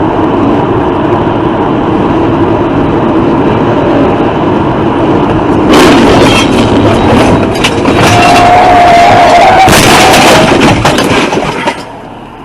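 Loud vehicle noise from a road crash: a steady rush of noise, then from about six seconds in harsh crashing and scraping with a wavering squeal, dying away shortly before the end.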